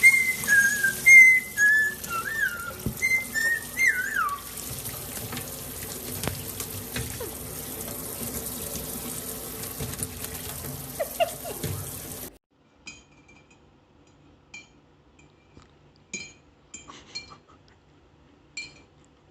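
A parrot whistling a quick string of short up-and-down notes over a running water tap. After about twelve seconds the water cuts off suddenly, leaving faint clicks and short chirps.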